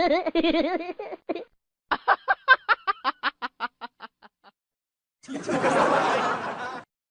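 Laughter: a wavering laugh, then a run of quick snickering pulses that fade away. Near the end comes a burst of rushing, hiss-like noise lasting about a second and a half.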